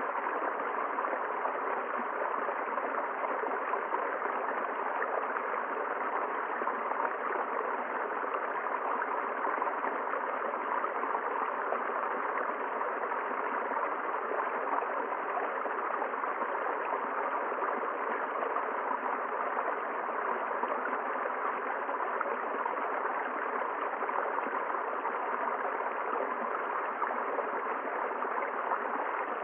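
A river flowing, a steady even rush of running water.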